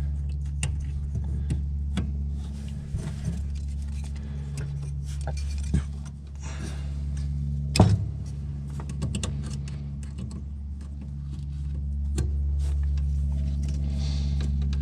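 A steady low machine hum with small clicks, metal taps and rattles from hands working on wiring and parts, and one sharper knock about eight seconds in.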